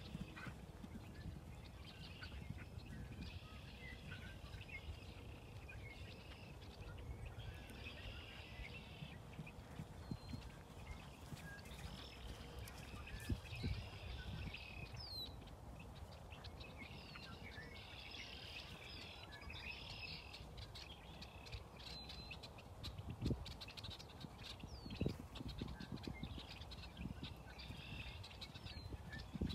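Faint birdsong, chirps coming in patches, over a steady low wind rumble on the microphone, with a couple of dull thumps near the end.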